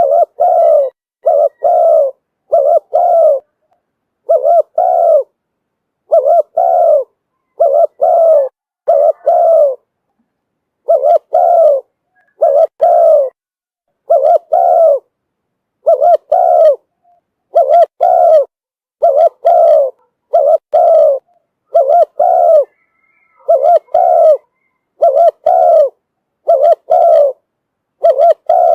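Spotted dove cooing: short coo notes in close pairs, repeated over and over with brief pauses. This is a decoy dove's call, of the kind used to draw in wild doves.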